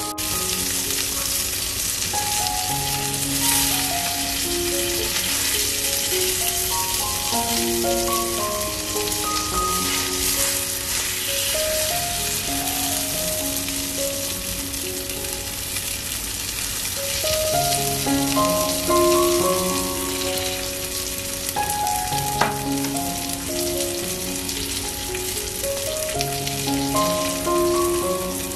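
Mortadella frying in a stainless steel pan: a steady sizzle, with soft background music of short stepped notes over it. A single sharp tap sounds about three quarters of the way through.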